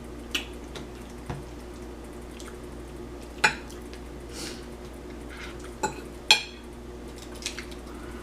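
Eating utensil clinking against a plate of spaghetti in a handful of sharp, scattered clicks, the loudest about a third of the way in and again past the middle, over a low steady hum.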